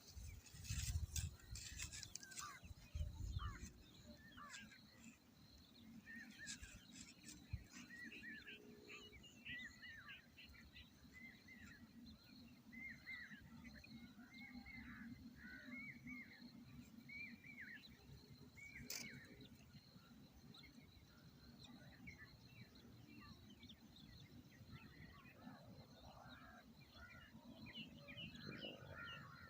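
Faint, rapid series of short bird chirps, most of them in the middle stretch, with a few low knocks in the first few seconds.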